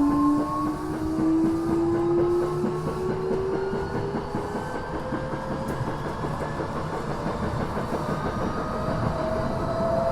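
Tokyo Metro 6000 series train running, heard on board: the whine of its Mitsubishi IGBT-VVVF inverter and traction motors rises steadily in pitch as the train accelerates, then fades about halfway through. Rail-joint clacks and running noise continue underneath throughout, and a new steady tone comes in near the end.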